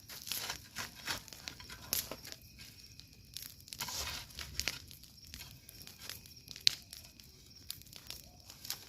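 Irregular sharp crackles and rustling from a wood bonfire, with a longer rustling scrape about four seconds in and one sharp crack near the end.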